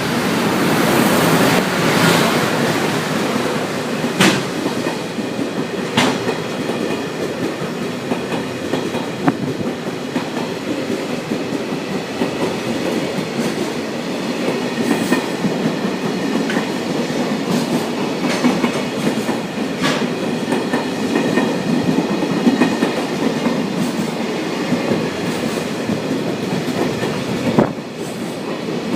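Freight train rolling past at close range, its wagons' wheels clattering steadily over the rail joints, with occasional sharper clacks.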